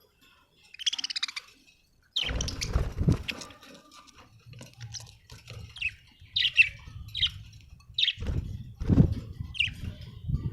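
Budgerigars chirping in a string of short, high calls. Low rumbling thuds come in about two seconds in and again near the end.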